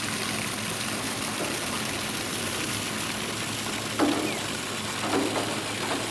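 Steady rushing water, with three short, louder sounds in the last two seconds, the first of them the loudest.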